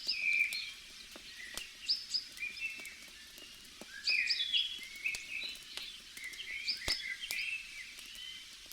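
Songbirds chirping in short bursts of rapid notes, over the scattered sharp pops and crackles of a burning campfire, one pop standing out near the end.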